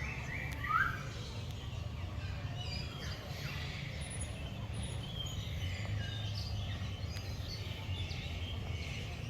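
Several birds chirping and calling together, with one louder rising call about a second in, over a steady low rumble.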